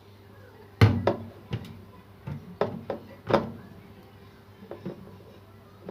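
A string of sharp knocks and clunks of a utensil and food against a cooking pot as mushrooms are tipped in, the loudest about a second in and a couple of fainter ones near the end, over a steady low hum.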